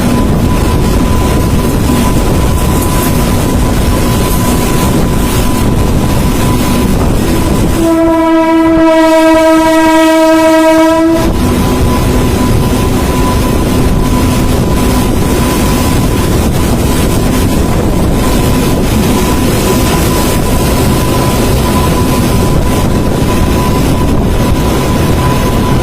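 Passing train: steady loud rumble of wheels on the rails, with one train horn blast lasting about three seconds, starting about eight seconds in.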